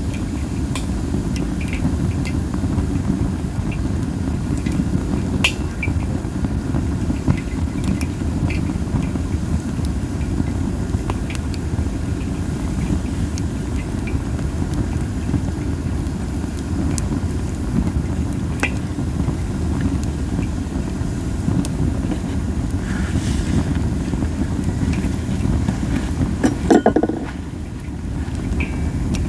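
Masaki (Japanese spindle) wood burning in a campfire, giving scattered pops and crackles over a steady low rumble of wind on the microphone. A short louder sound comes near the end.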